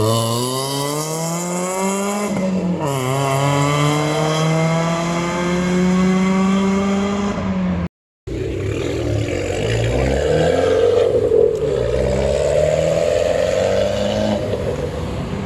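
Car engine accelerating hard: its note climbs steadily, drops sharply on an upshift about two and a half seconds in, then holds a steady pitch. After a break partway through, more car engine noise runs on, rougher and less steady.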